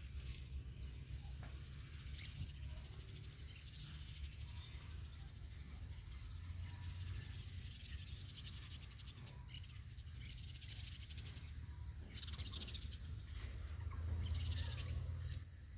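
Outdoor farmyard ambience: birds calling in short rapid trills at intervals, over a steady low rumble.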